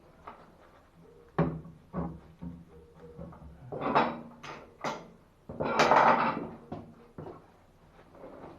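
A run of knocks and clunks from metal plumbing parts and tools being handled during a valve replacement, with a louder scraping clatter about six seconds in.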